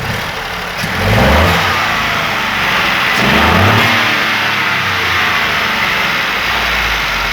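Ford Ka's 1.0 three-cylinder engine revved twice, about a second in and again about three seconds in, each rev rising and falling back, then running steadily. It runs smoothly, like a clock, with the broken exhaust valve on the second cylinder repaired.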